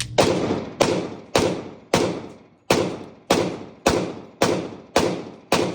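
A .40-calibre pistol fired ten times in a steady string, about one shot every half second or more. Each shot trails off in echo before the next.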